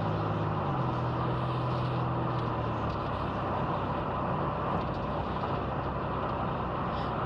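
Car engine and road noise heard from inside the moving car's cabin. The engine's low hum drops in pitch about a second in and then fades under steady tyre and road noise.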